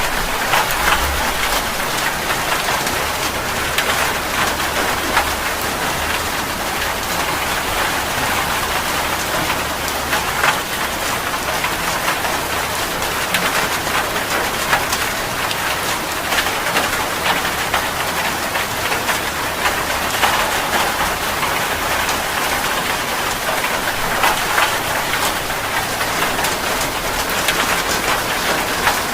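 Steady rain falling on a surface, a constant hiss with many separate drops ticking through it.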